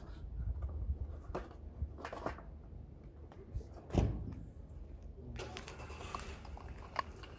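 Clicks and knocks of the oil filter and its housing parts being handled and fitted, with one sharper knock about four seconds in and a rougher rustling stretch near the end.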